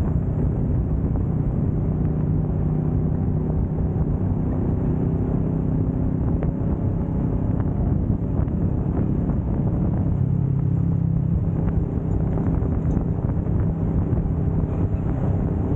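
Kawasaki Vulcan S 650's parallel-twin engine running at a steady cruise on the expressway, a constant low drone with no shifts or revving.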